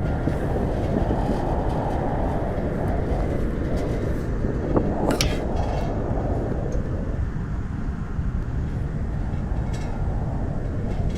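Strong wind blowing, a steady low rush with slow swells, and a brief sharp high squeak about five seconds in.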